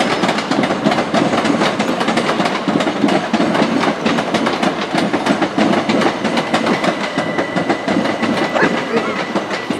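Southeastern Class 375 electric train running through the station: a continuous rumble with rapid clicking of the wheels over the rails. A faint steady whine joins about six seconds in.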